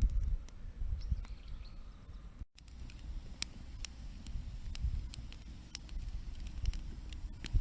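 Wood campfire crackling, with sharp pops scattered irregularly over a low rumble of wind on the microphone; the sound cuts out for an instant about two and a half seconds in.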